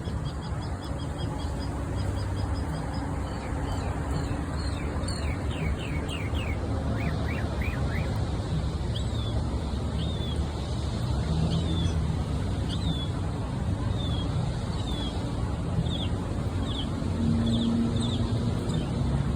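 Northern mockingbird singing a string of varied phrases: quick repeated notes, then a run of short falling sweeps, then a series of chirps repeated about once a second. A steady low rumble of city traffic runs underneath.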